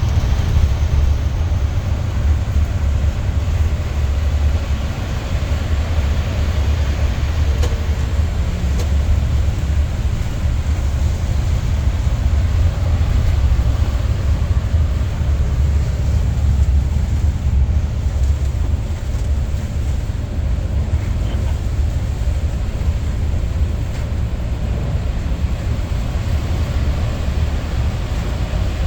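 Steady low rumble of an aircraft in flight, engine and airflow noise with an even hiss above it, unchanging throughout.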